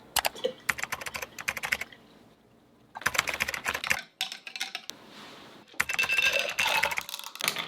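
Rapid clicking and rattling of coffee-making gear in four short bursts with brief pauses between.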